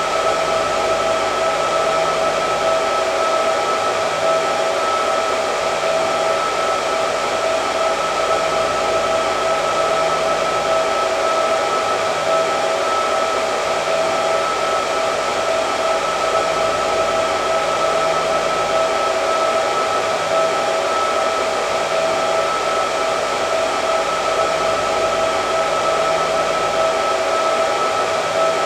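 Hair dryer running steadily: an even rush of blown air with a constant motor whine over it.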